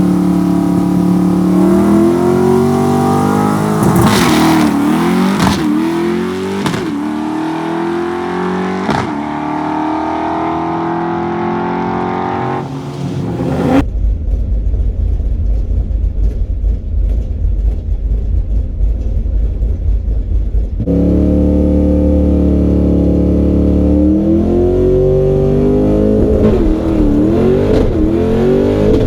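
A drag car's engine revving and accelerating hard, its pitch climbing with several sharp dips between climbs. About halfway through the sound switches abruptly to a deep low rumble for several seconds, then the engine comes back, climbing and dipping again near the end.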